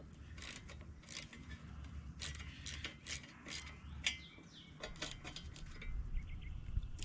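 Metal hand tools clinking and rattling in a series of irregular sharp clicks, as a wrench is picked out from among them.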